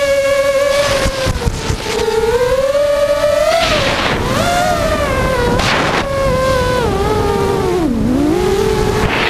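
FPV quadcopter's motors and propellers whining, the pitch rising and falling with the throttle. It dips sharply low about eight seconds in, then climbs again, with several short rushes of wind.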